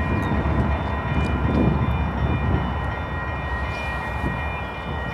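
Freight train rolling past: a steady low rumble with several thin, steady high-pitched tones from the wheels and rails, fading slightly toward the end.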